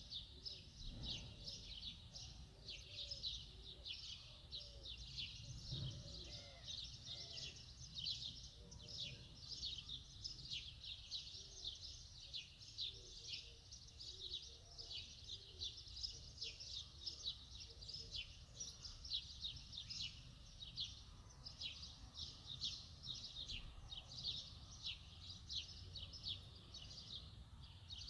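Small birds chirping steadily, many quick high chirps overlapping without pause.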